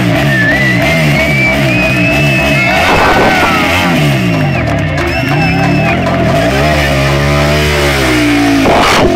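Motorcycle engine revved in quick repeated blips, about two a second, then held at high revs for a couple of seconds, over loud music from a PA. A short noisy burst comes near the end.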